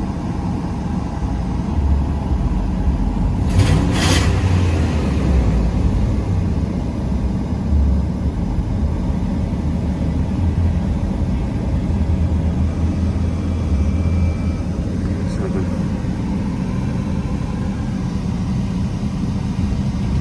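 Dodge Ram 1500's 5.7-litre Hemi V8 idling steadily with a low rumble, heard from inside the cab, with a brief rush of noise about four seconds in.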